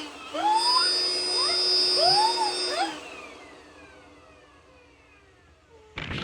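Electric air blower inflating a giant balloon, running with a steady whine and short rising-and-falling squeals over it, then switched off about halfway through, its whine falling in pitch as it spins down. A brief burst of noise comes near the end.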